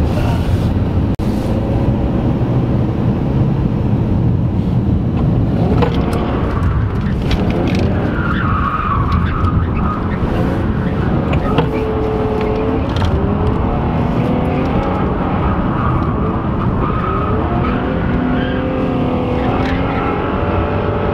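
Car engine revving up and down hard while the tyres skid and squeal in a drift.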